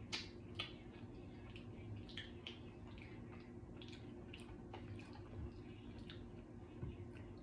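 Close-miked mouth sounds of chewing a soft, wet mouthful of macaroni and cheese: moist smacks and lip clicks, a few a second, the sharpest right at the start.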